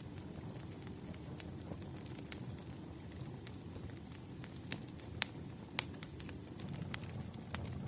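Wood fire burning: irregular sharp crackles and pops over a low steady rumble, with a few louder pops in the second half.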